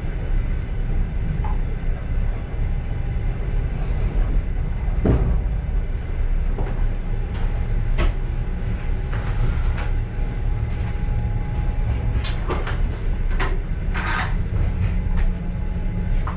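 Passenger train car running: a steady low rumble from the wheels and track, heard from inside the car, with scattered sharp clicks and knocks from the car body and fittings.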